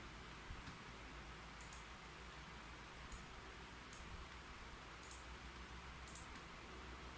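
Faint, sparse keyboard key clicks, single keys pressed irregularly about once a second, some in quick pairs, over a steady low hiss.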